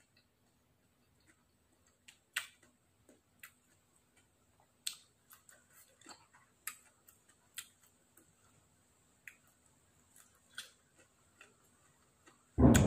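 Quiet eating sounds: scattered soft clicks and smacks of chewing. Just before the end a much louder sound begins suddenly.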